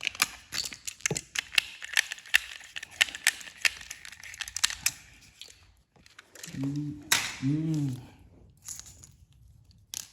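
Battery-powered toy train engine running in the hand, with a quick irregular run of clicks and rattles over a faint motor whir for about five seconds. Its corroded battery contacts are still carrying enough current for it to work. Near the end come two short hummed voice sounds.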